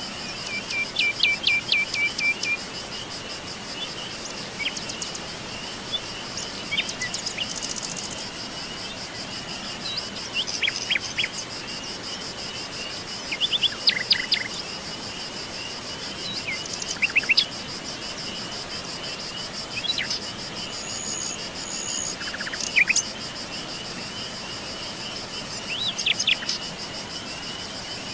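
Songbirds chirping and singing short trilled phrases every few seconds over a continuous high-pitched insect trill.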